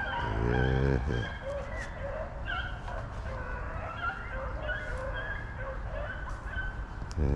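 A pack of rabbit hounds baying and yipping on a running rabbit, many short overlapping cries. A louder, low drawn-out call lasts about a second just after the start.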